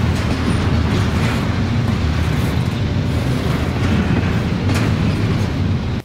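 Double-stack intermodal freight train rolling past close by: a steady rumble and rattle from the well cars' wheels on the rails, with a few faint clicks.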